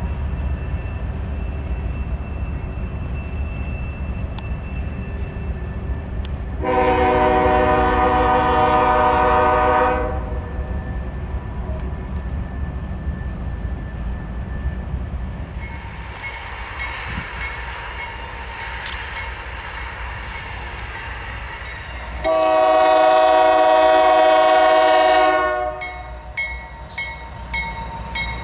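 Diesel freight locomotive running with a steady low rumble, sounding two long blasts on its multi-chime air horn, each about three seconds. Near the end a bell rings in quick, even strokes.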